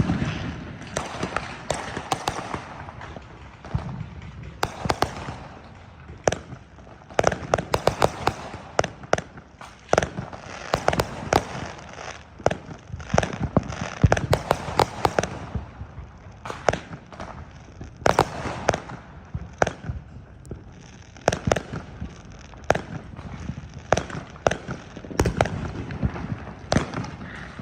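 Fireworks and firecrackers going off, with sharp cracks and pops in irregular rapid clusters over a constant rumble of booms.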